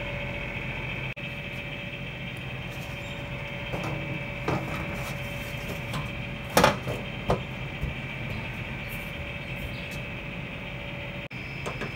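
Daikin air-conditioner outdoor unit running with its newly replaced fan motor, a steady hum with fixed tones and none of the earlier squeal. A few sharp knocks come over it in the middle, the loudest about six and a half seconds in.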